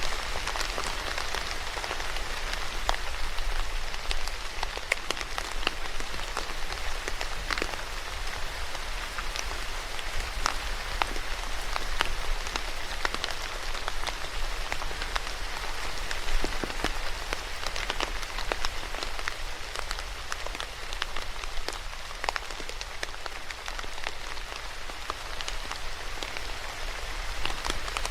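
Steady rain falling on a hard surface, a continuous hiss with many distinct drops pattering and ticking through it.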